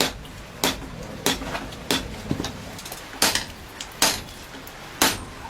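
Blacksmith's hand hammer striking a khukuri blade as it is forged to shape, about six sharp metal blows at an uneven pace, each well under a second or so apart.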